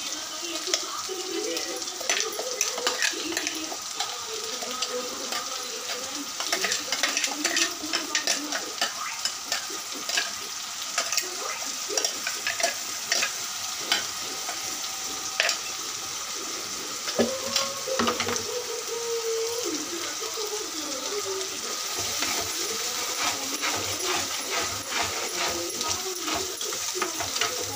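Masala paste frying in oil in a clay pot, sizzling steadily, while a metal spoon stirs it and scrapes the pot in many short clicks.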